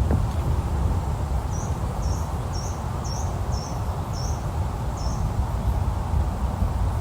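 Steady rain and wind noise with a deep low rumble. A small bird gives about seven short high chirps, roughly two a second, from about a second and a half in until about five seconds.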